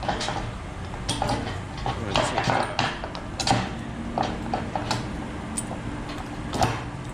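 Metal tools and small engine parts clinking and knocking as they are handled during an engine teardown. There are about nine separate sharp clinks, spread unevenly, over a steady low background hum.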